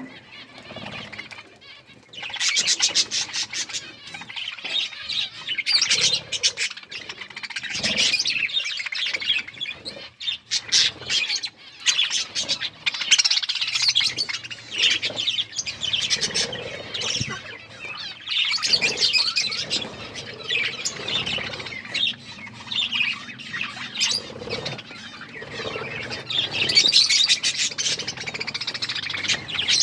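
Budgerigars chattering and chirping together in a busy, continuous warble mixed with rapid clicks and rustles. It picks up sharply about two seconds in after a quieter start.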